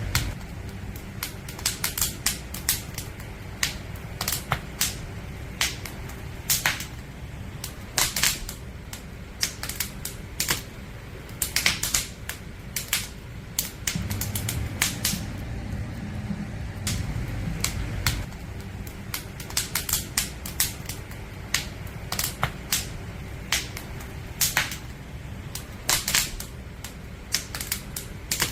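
Wood fire crackling: irregular sharp pops and snaps of burning firewood over a low steady rumble of the flames.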